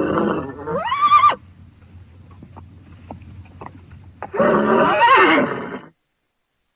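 Horse whinnying twice: a first call that climbs steeply in pitch, then a few seconds later a second, wavering whinny, with faint knocks in between. The sound cuts off abruptly about six seconds in.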